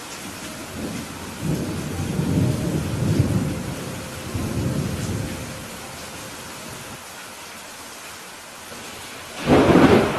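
Steady rain hissing, with thunder rumbling low in a few swells over the first half, then a sudden loud thunderclap near the end.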